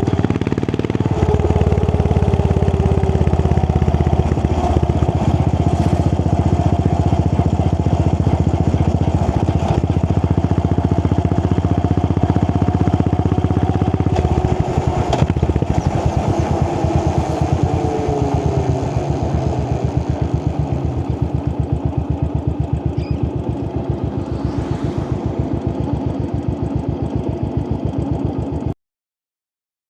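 A 535cc single-cylinder motorcycle engine with an AEW aftermarket exhaust, running steadily for about fourteen seconds. The throttle then eases off: the separate thumps of each firing stroke can be heard and slowly get quieter, with one sharp crack soon after. The sound cuts off suddenly near the end.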